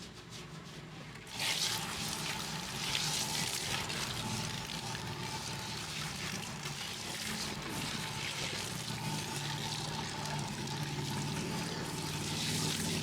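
Water starts running from a tap or hand sprayer about a second in, then pours and splashes steadily.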